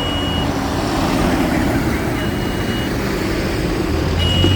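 Tractor and lorry engines running steadily, with a high beep that sounds for under a second and repeats about every two seconds.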